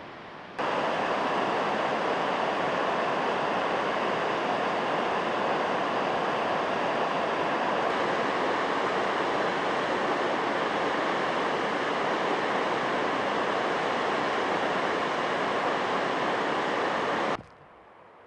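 Steady rushing of a waterfall, even and unbroken, cutting in suddenly about half a second in and cutting off suddenly near the end.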